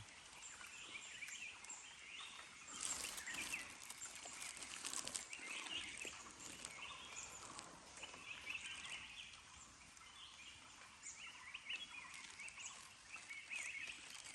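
Faint forest ambience with many small birds chirping and twittering on and off, and a brief stretch of rustling about three to five seconds in.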